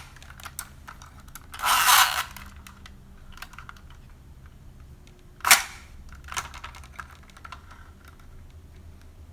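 Plastic tongue winch of a Kenner Silverhawks Sky Shadow toy being pulled out of and running back into the figure's mouth: a rattling, clicking burst of about half a second near 2 s in, a sharp snap about 5.5 s in, and a shorter clicking burst just after, with scattered small plastic clicks between.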